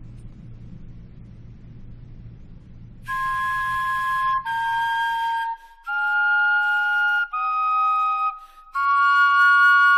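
Flute-like wind instruments made from vegetables play a slow tune of held notes, two pitches sounding together, with short breaks between notes. They come in about three seconds in, after a low hum.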